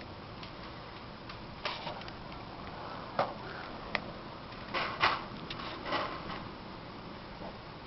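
A few irregular short knocks and clicks over a steady faint hiss, the loudest pair about five seconds in.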